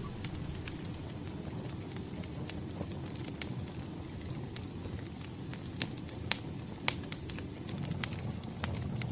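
Wood fire burning with a low steady rumble and scattered sharp crackles and pops, a few of them louder in the second half.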